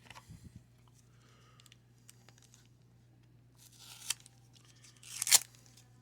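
Wax-paper baseball card pack wrapper being torn open in two short rips, about four and five seconds in; the second rip is the louder. Light crinkles and ticks of handling come before them.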